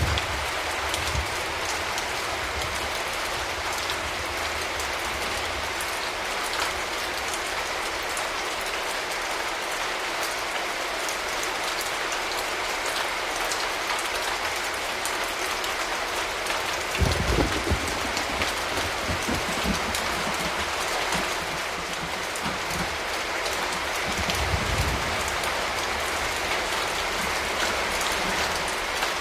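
Steady rain falling, an even hiss of drops throughout, with two brief low rumbles, one a little past halfway and another later on.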